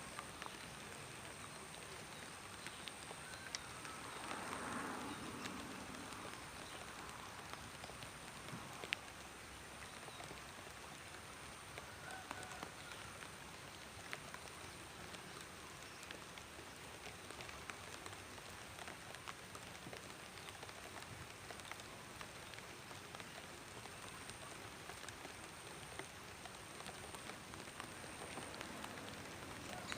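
Light rain falling steadily, with scattered sharp drips and ticks of drops, and a brief louder swell about four seconds in.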